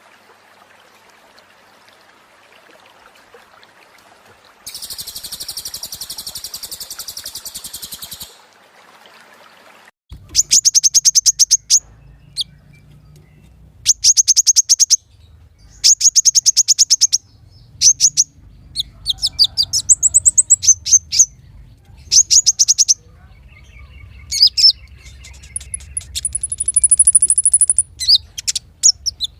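Small songbird singing: a short, dry, buzzing high trill, then loud, very rapid high-pitched trills in bursts about a second long, repeated with short gaps.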